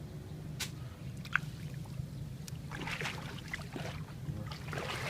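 Water splashing and sloshing in two spells, about three seconds in and again near the end, with a couple of sharp knocks earlier on, over a steady low hum.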